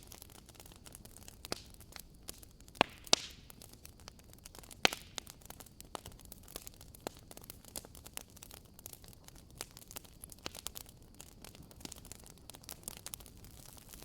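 Wood fire crackling: irregular sharp pops and snaps over a faint steady hiss, with louder pops about three and five seconds in.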